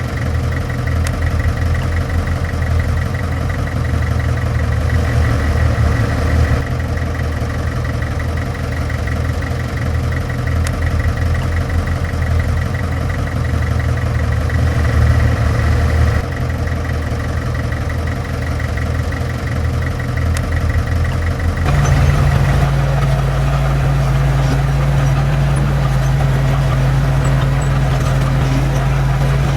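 Heavy diesel earthmoving machine engine running steadily. About two-thirds of the way through, the engine note changes abruptly to a steadier, slightly higher hum.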